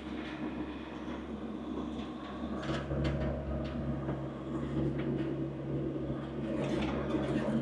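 John Deere 1025R compact tractor's three-cylinder diesel engine running steadily while the loader works, pulling harder from about three seconds in, with a few short knocks and clanks.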